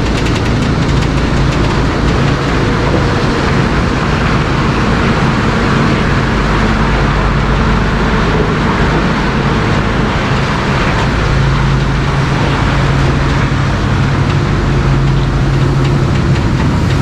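Grain semi-truck's diesel engine running steadily under a broad, even rush of noise. Its low drone grows stronger about eleven seconds in.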